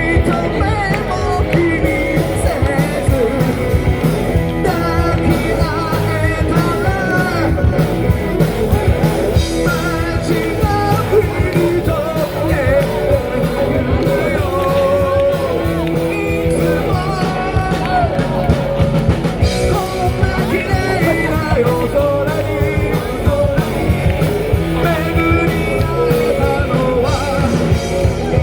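Live rock band playing a song with a lead singer, drums, bass and electric guitars, loud and continuous.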